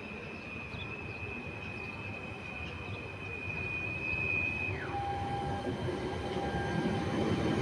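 Train running through the station with a high steady squeal that drops sharply in pitch about five seconds in and then holds a lower note. Its rumble grows gradually louder.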